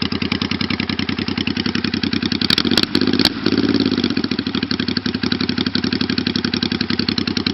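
1985 Honda VT500 Shadow's V-twin idling through its freshly welded exhaust pipes in a steady, rapid pulse, with the engine still cold. A few sharp clicks come about three seconds in.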